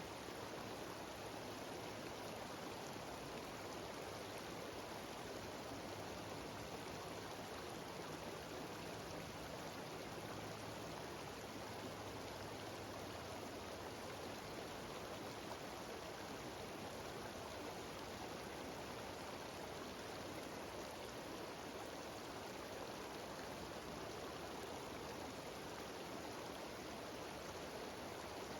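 Mountain waterfall cascading down a rocky stream, its water rushing in a steady, unbroken hiss.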